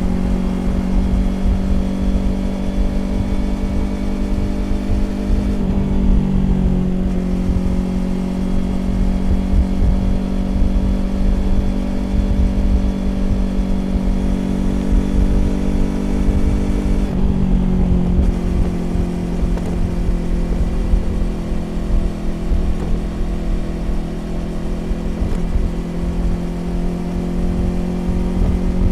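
2020 Yamaha YZF-R25 parallel-twin engine through a Prunus aftermarket exhaust, running at a steady cruising pitch at speed. The throttle is eased off briefly twice, about six seconds in and again about seventeen seconds in, before the note steadies again, with a low wind rumble underneath.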